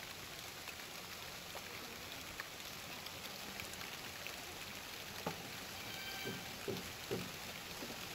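Steady light rain falling, with drops tapping on nearby surfaces and a few louder taps about five to seven seconds in.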